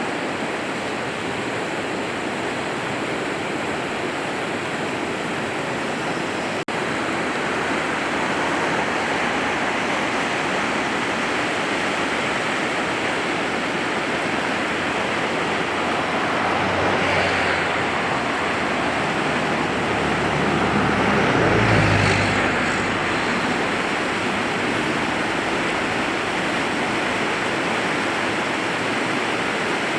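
Steady rush of the flood-swollen French Broad River. A vehicle passes about halfway through, and a heavier vehicle passes soon after, the loudest moment.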